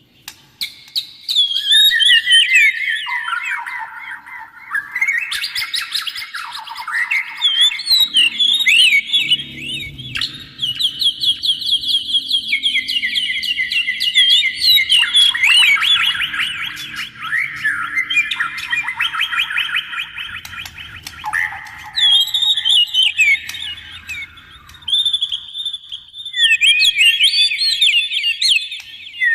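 A Copsychus songbird (oriental magpie-robin or white-rumped shama) singing a long, loud run of phrases. Each phrase is a fast string of the same sharp note, and the pitch jumps every few seconds. A faint low hum joins underneath about eight seconds in.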